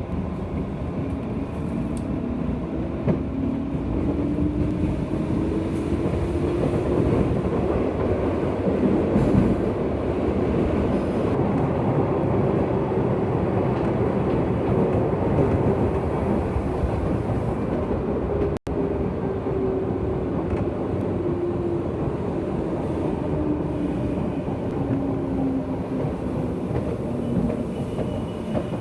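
Interior running noise of a JR West 201 series electric train, heard from a motor car: wheel and rail rumble with joint clatter. The chopper-control traction motor whine rises in pitch early on as the train picks up speed, and falls steadily in the second half as it slows.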